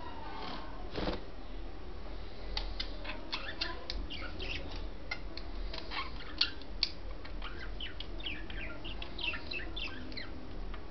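Pet budgerigars chattering: a stream of quick, short chirps and clicks, getting busier from about two seconds in.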